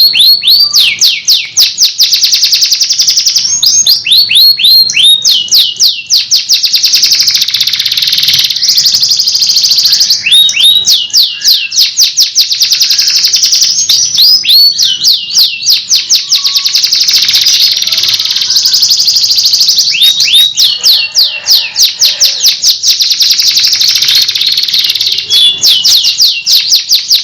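Domestic canary singing a long continuous song of rapid trills. Runs of fast repeated notes, each sweeping down in pitch, alternate with denser, higher rolling passages.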